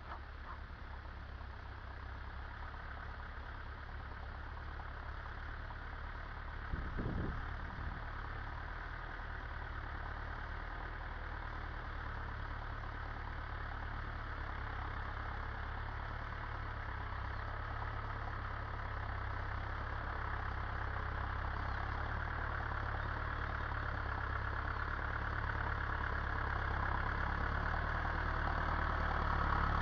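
Massey Ferguson 275 tractor's diesel engine running steadily, growing gradually louder. A brief knock sounds about seven seconds in.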